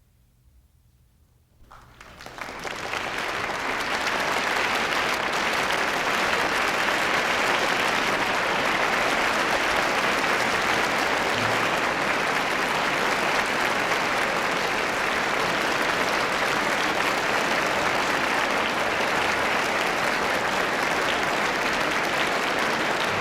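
A concert-hall audience breaking into applause about two seconds in, building quickly to steady, sustained clapping at the end of a symphony performance.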